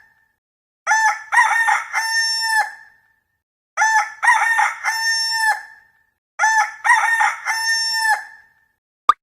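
Rooster crowing cock-a-doodle-doo three times, each crow about two seconds long with a pause between. Right at the end, a quick run of short pops begins.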